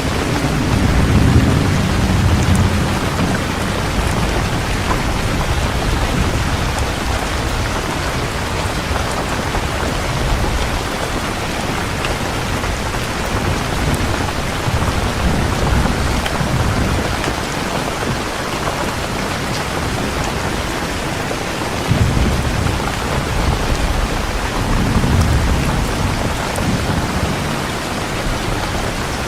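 Heavy rain falling steadily, with low rolls of thunder rumbling near the start and again about two-thirds of the way through.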